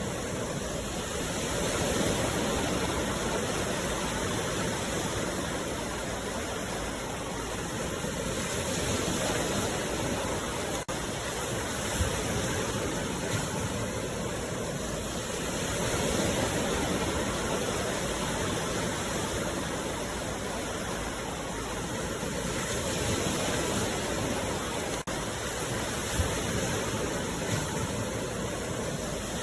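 Sea waves washing onto the shore in a steady rush that swells and eases every six or seven seconds, with two very brief dropouts.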